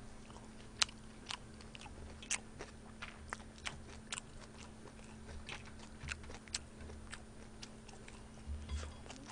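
Close-miked chewing of smoked pork belly: soft wet mouth sounds with many sharp irregular clicks and smacks, a few a second.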